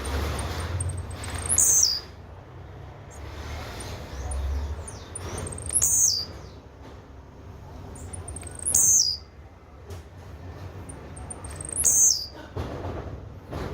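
Blue-black grassquit (tiziu) singing its short high song four times, about every three seconds, each a quick falling phrase led by a few faint high ticks, over a low rumble.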